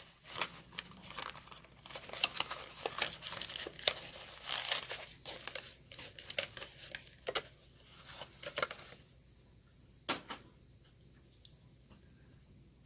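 Hot Wheels card-and-plastic blister package being handled and torn by hand: a dense run of crinkling and tearing that stops about nine seconds in, followed a second later by one sharp click.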